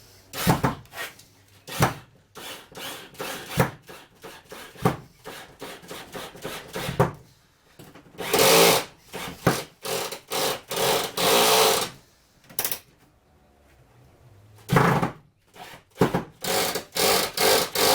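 Tool work on timber framing: irregular short rasping bursts and knocks, with a run of longer bursts in the middle and again near the end.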